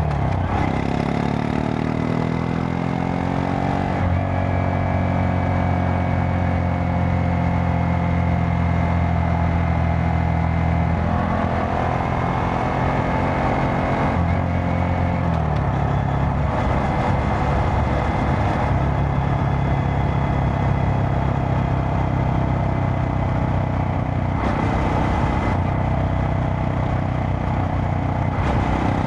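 Honda Monkey 125's air-cooled single-cylinder four-stroke engine running under way. Its pitch rises over the first few seconds as the bike speeds up, holds steady, then drops to a lower note about fifteen seconds in, as at a gear change or a throttle change.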